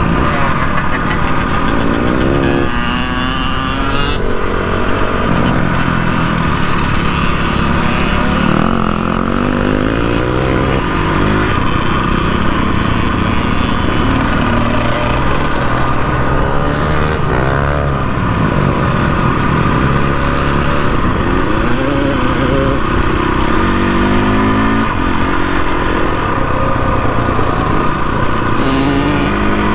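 KTM 450 EXC dirt bike's single-cylinder four-stroke engine being ridden hard, its pitch rising and falling over and over as the throttle is worked on and off.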